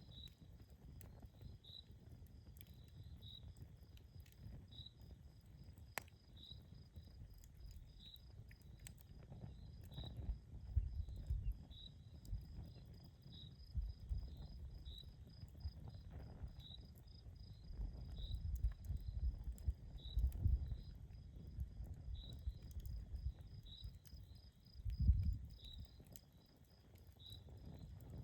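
Crickets chirping in an even rhythm, about one chirp every three-quarters of a second, over a steady high insect trill. An outdoor campfire adds a few sharp crackles. Low rumbling swells rise and fall several times, the strongest about 25 s in.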